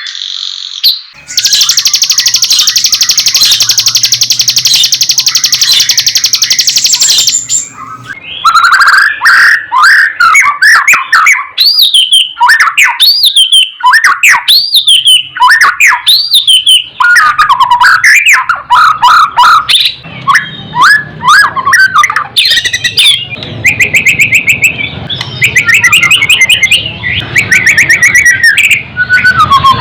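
White-rumped shama (murai batu) singing. It opens with several seconds of a fast, buzzy rattle of rapid repeated notes, then goes into loud, varied whistled phrases that slide up and down. Quick trills come back near the end.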